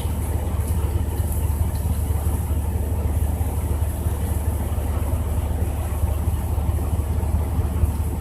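Heavy rain with strong wind buffeting the microphone: a steady low rumble under a continuous hiss of rain.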